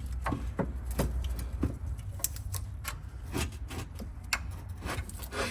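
Scattered light metallic clicks and knocks at irregular intervals, from metal parts and tools being handled while the axle is worked free of the suspension.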